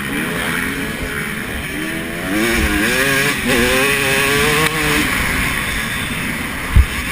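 Motocross motorcycles racing, their engines revving up and down through the gears, loudest as a bike passes close between about two and five seconds in. A short low thump near the end.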